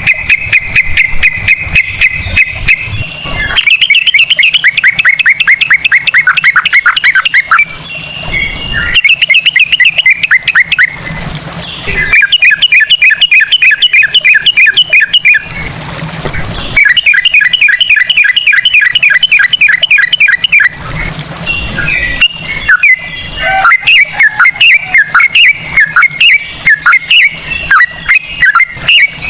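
Yellow-vented bulbul (trucukan) singing in fast, continuous runs of repeated notes, about five or six a second. Each run lasts a few seconds with brief pauses between, and the notes turn more scattered and irregular near the end. It is a 'ropel' song with straw-headed bulbul (cucak rowo) style phrasing.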